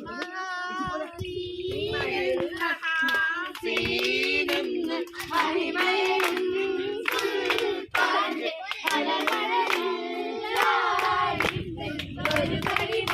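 A group of voices singing a Malayalam song unaccompanied, with hands clapping along to the beat.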